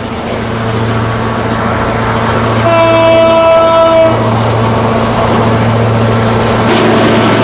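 Diesel locomotive running close by with a steady low engine drone that grows louder, and one horn blast of about a second and a half near the middle.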